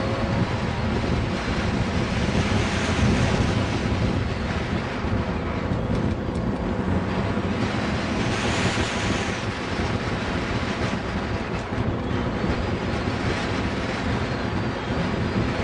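Pontiac Fiero's engine running hard as the car is driven through a cone course, with wind buffeting the microphone. A brief rise of hiss comes about eight seconds in.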